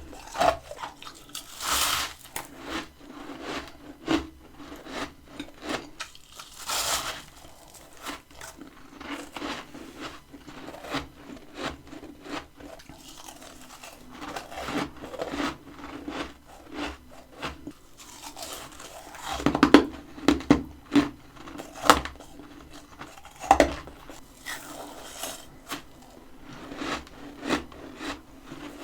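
Close-miked biting and chewing of freezer frost: a steady run of crisp crunches and crackles, with a few louder, sharper bites scattered through.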